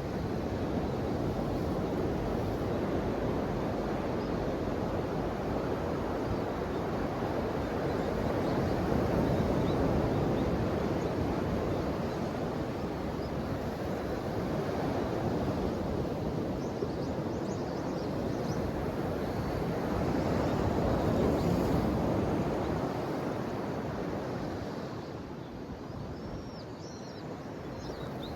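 Ocean waves washing in as a steady surge of surf that swells twice and eases near the end, with faint high chirps over it.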